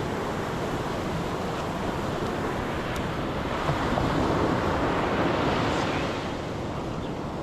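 Steady wind buffeting the microphone over the wash of sea water, swelling louder for a couple of seconds in the middle.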